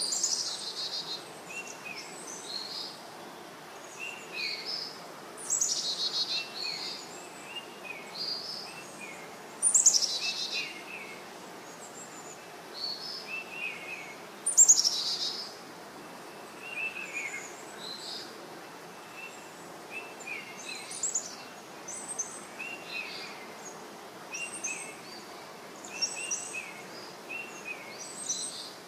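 Birds chirping over a steady hiss: short repeated calls throughout, with a few louder calls sweeping downward in pitch in the first half.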